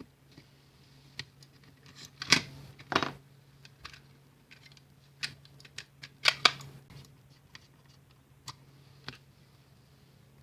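Irregular small clicks and taps, with a few louder knocks about two, three and six seconds in, over a faint steady low hum.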